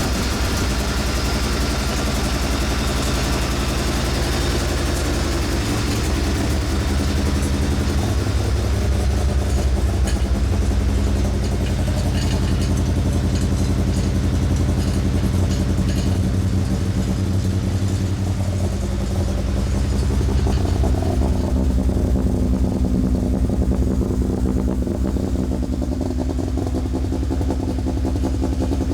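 Nissan SR20 inline-four engine in a Datsun 1600 running steadily, its note shifting slightly now and then: the first run of the freshly swapped engine.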